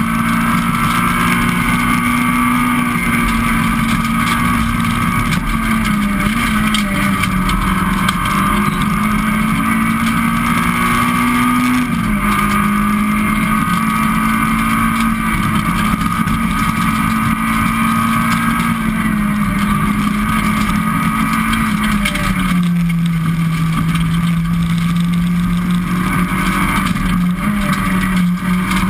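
Citroën Saxo VTS rally car's four-cylinder engine pulling hard at high revs, heard loud from inside the cabin. The engine note holds, then dips and steps with lifts and gear changes, dropping lower for a few seconds near the end before climbing again.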